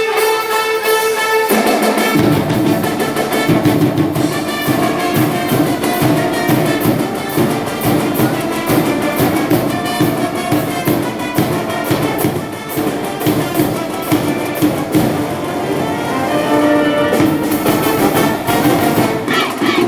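High school brass band playing a baseball cheering tune: a held brass chord, then about a second and a half in the drums and low brass come in with a steady beat.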